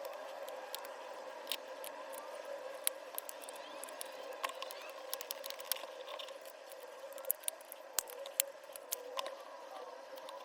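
Light clicks and taps of small parts being handled during the disassembly of a cordless disc grinder, scattered irregularly over a steady hum.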